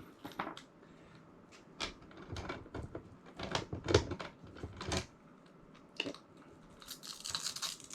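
Small hard parts being handled during assembly: scattered clicks and light knocks, followed near the end by a stretch of scratchy rustling.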